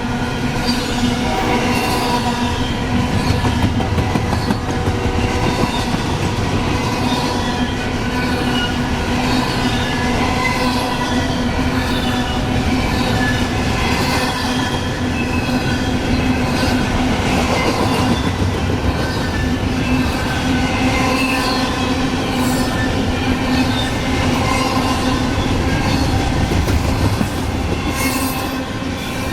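Train rolling past at close range: a continuous rumble of wheels on rail, with steady squealing tones from the wheels held throughout.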